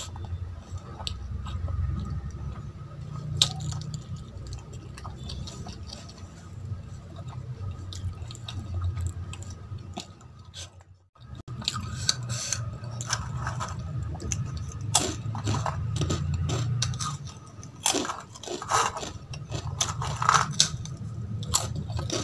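Close-miked chewing of a mouthful of rice and curry eaten by hand, with many small wet mouth clicks and squishes. Fingers scrape the steel plate. The sound drops out briefly about halfway.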